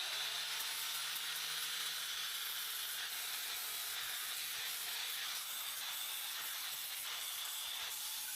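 Angle grinder with a flap disc grinding corrosion off the aluminium leg of a Mariner 30 hp outboard: a steady hiss, with a faint low hum from the motor in the first couple of seconds.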